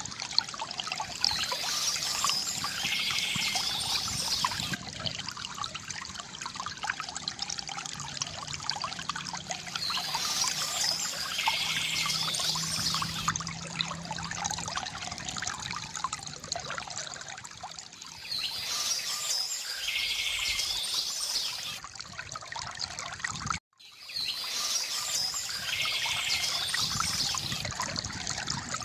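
Water trickling and pouring from a bamboo fountain spout, with birds chirping in spells of a few seconds that come back about every eight seconds. The sound cuts out for a split second about three-quarters of the way through.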